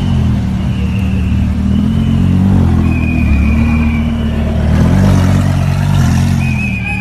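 Car engines running and revving, with a low engine note that rises and falls. Several short, steady high-pitched tones come and go over it.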